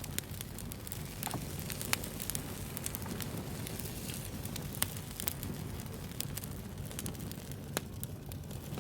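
Wood fire burning with a low rumble and irregular crackles, a few sharper pops among them.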